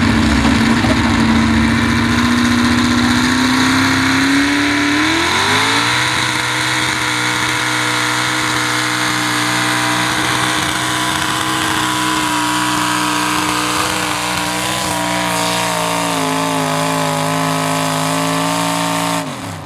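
A pulling truck's engine running hard at high revs while it drags a weight sled down the track. The pitch climbs about a quarter of the way in, holds high, dips slightly, then cuts off abruptly near the end.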